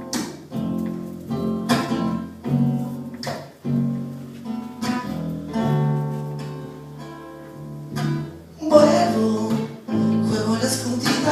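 Song intro: acoustic guitar plucking notes and chords that ring on. About nine seconds in, more instruments join and the sound gets fuller and brighter.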